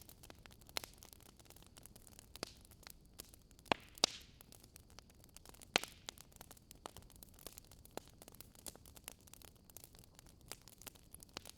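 Wood bonfire crackling: irregular sharp pops and snaps over a soft hiss, with a few louder pops around the middle and a brief hiss about four seconds in.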